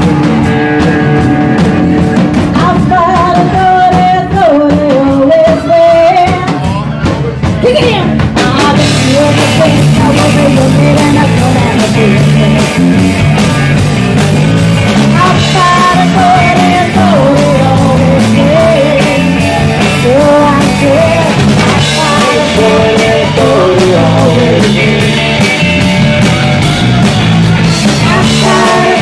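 Live rock band playing loudly: electric guitars, bass guitar and a drum kit keeping a steady beat, with a bending lead melody over them.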